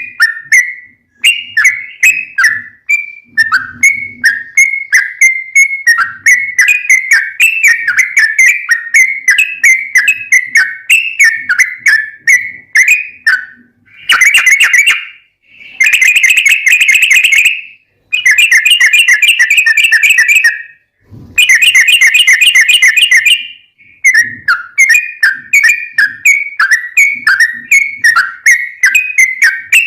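Yellow-vented bulbul (trucukan) singing loudly: a string of quick chirping notes, then in the middle four long bursts of very fast, tightly packed trills (the 'ropel' song) with short pauses between them, before the quick notes resume.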